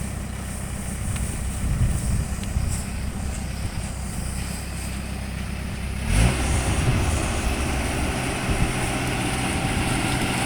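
Combine harvester's engine running steadily with a low rumble. About six seconds in, a louder rushing, threshing-like noise abruptly joins it.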